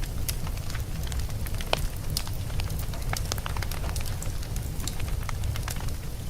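Wood logs burning in a fireplace, a steady low rumble of the flames with frequent sharp crackles and pops scattered throughout.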